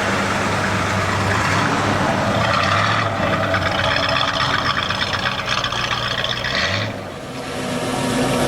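Vintage cars' engines running as the cars drive past one after another. From about two seconds in until about seven seconds, one car passes with a fast, even rattle. The sound drops briefly, then another car comes up near the end.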